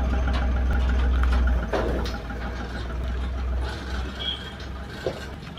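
A vehicle's engine running steadily with a deep low hum. The hum drops sharply about a second and a half in and fades away over the next two seconds.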